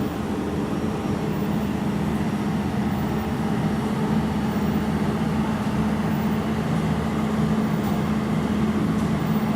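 Jewelry laser welding machine running with a steady, even hum and a low droning tone.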